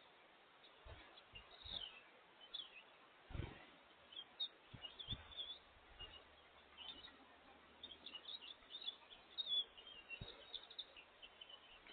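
Small songbirds chirping faintly, many short high chirps scattered throughout and coming thicker in the second half, with a few soft low thumps in between.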